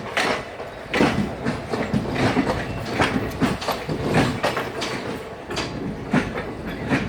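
Passenger train coaches' wheels clattering over rail joints and points as an express train runs into a station: a steady rumble broken by repeated sharp clanks.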